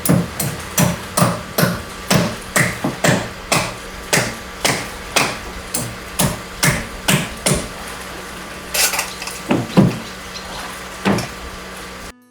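Hammer blows struck in a steady rhythm, about two a second, then a short pause and a few slower, spaced blows near the end.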